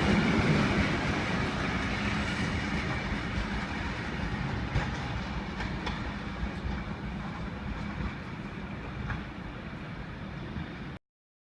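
Heritage passenger train running past and away along the track, its wheels clicking over the rail joints, the sound steadily fading. It cuts off suddenly near the end.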